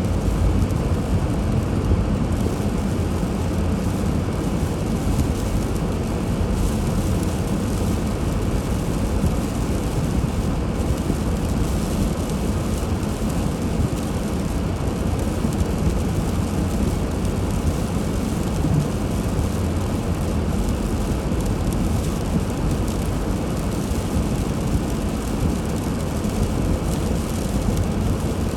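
Car driving on snowy roads: a steady low rumble of engine and tyre noise.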